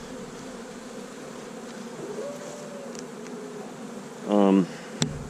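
Honey bees humming steadily around an open, crowded hive. About four seconds in there is a short, loud pitched sound, followed by a sharp click.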